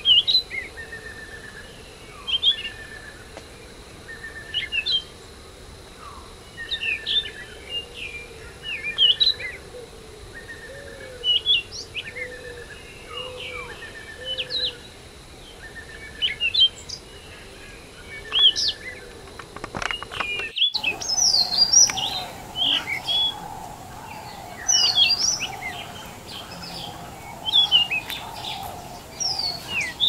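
Several wild birds chirping and singing, with a short trill repeating about once a second among whistled calls. About two-thirds of the way in the sound drops out briefly, and the chorus that follows is busier, over a steady drone.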